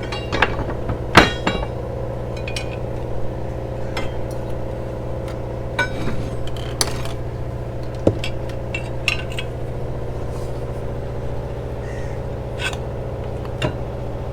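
Scattered metallic clinks and scrapes of a crowbar working a mast stay-line turnbuckle, the loudest a little over a second in, over a steady low machinery hum.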